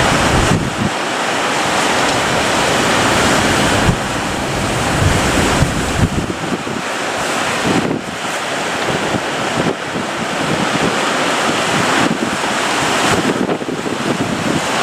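Ocean surf breaking heavily, with strong wind buffeting the microphone.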